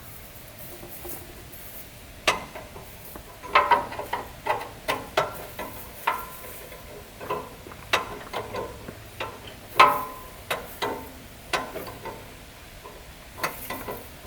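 Irregular sharp metallic clinks and clanks of hand tools against steel tractor parts, some ringing briefly. They come in clusters, loudest a few seconds in and again near the middle.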